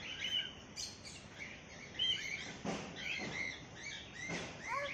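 Birds chirping and calling, many short overlapping chirps throughout, with a few brief rasping noises.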